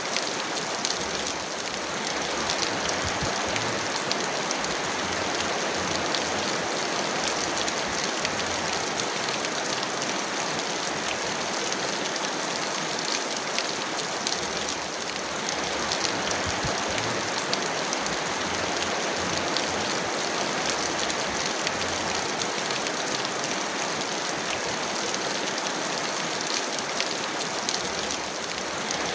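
Heavy rain falling steadily: a dense, even hiss of rain with many fine individual drop ticks.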